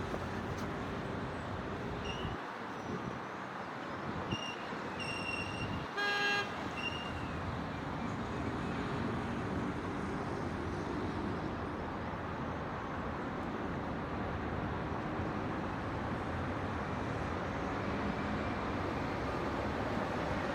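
Steady city traffic noise, with a vehicle horn sounding one short honk about six seconds in. A few brief high chirps come just before the honk.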